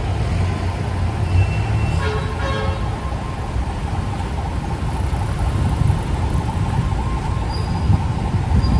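Busy street traffic: vehicle engines running with a steady rumble, and a brief pitched tone, like a horn, about two seconds in.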